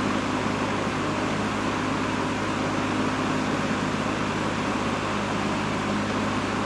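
1960s Superlectric 20-inch box fan (model 2067S) running steadily: a rush of blown air over a steady low motor hum.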